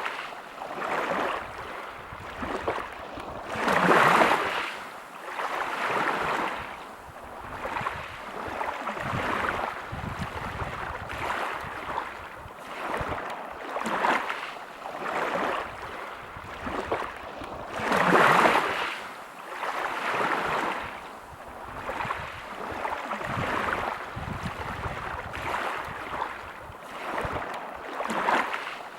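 Sea waves breaking and washing over a pebble beach, the surf swelling and falling every second or two, with two louder breakers about four seconds in and about eighteen seconds in.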